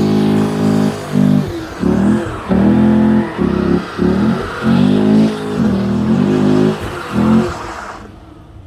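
Car engine revving hard: held high at first, then blipped up and down in a quick series of revs, dying away near the end.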